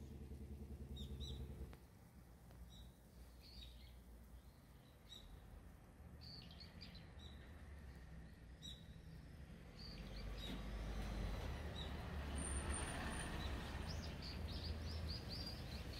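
Quiet outdoor ambience with a low steady rumble and faint, scattered bird chirps, a quick run of chirps near the end.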